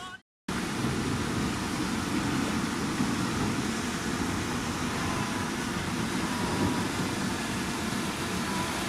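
Heavy diesel earthmoving machinery running steadily at work, a continuous deep engine rumble with no break. It cuts in after a brief moment of silence just at the start.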